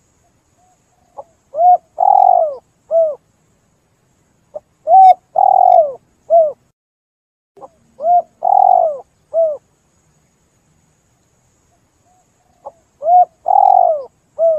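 Spotted dove (tekukur) cooing: four phrases spaced about three to four seconds apart. Each phrase is a short coo, a longer rolling coo and a final coo.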